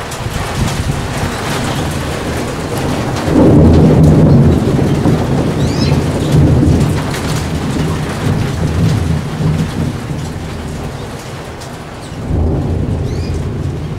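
Rolling thunder over steady rain: the rumble swells sharply about three seconds in and rolls on for several seconds, with a second burst near the end.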